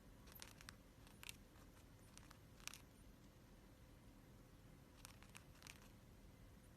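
Near silence: room tone with a few faint, scattered clicks and scratches.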